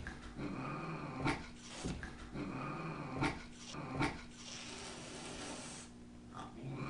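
A cat making dog-like barking calls, several in a row, with a few sharp knocks in between.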